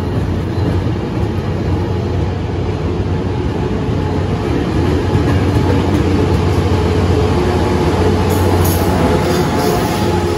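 Tri-Rail commuter train passing close by at speed: a steady rumble of the bilevel coaches' wheels on the rails with a low engine hum, growing a little louder midway. The diesel locomotive at the rear comes past near the end.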